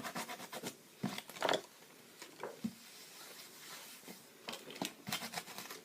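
Quick rubbing and scrubbing strokes as paint is cleaned off a stencil, in short runs with a quieter stretch in the middle.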